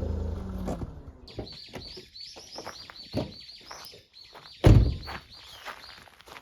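A small bird chirping in a fast run of short, high repeated notes, over a few dull thuds, the loudest about halfway through. A low steady hum stops in the first second.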